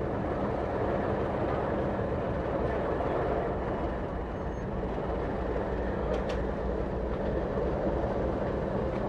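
Railway carriage of the Cockle Train rumbling along the track in a steady, even run.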